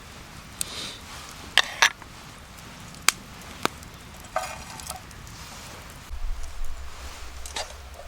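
Campfire cooking: a utensil taps and clicks against a pan several times, then scrapes across it, over a faint sizzle. Low rumbling comes in near the end.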